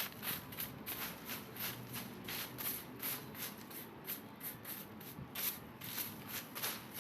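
Dry fallen leaves rustling and scraping in quick repeated strokes, about two or three a second.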